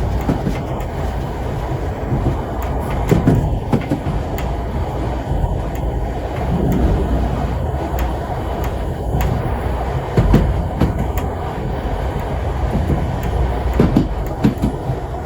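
Heritage steam train rolling along jointed track: a steady low rumble of the carriage with a cluster of wheel clacks over the rail joints every three to four seconds.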